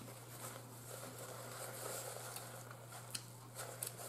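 Faint chewing and wet mouth sounds while eating, with a few sharp lip-smacking clicks in the second half, over a steady low hum.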